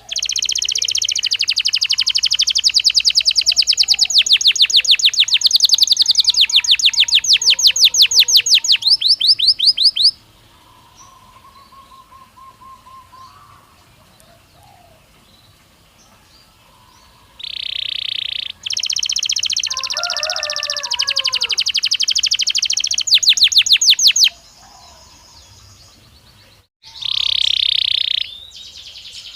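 Belgian canary singing in long phrases of rapid trills, fast repeated notes that slow toward the end of each phrase, with quieter pauses between phrases. Fainter calls of other birds come through in the pauses.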